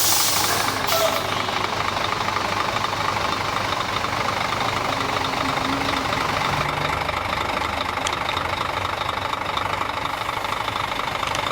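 An engine idling steadily, with a short hiss in the first second.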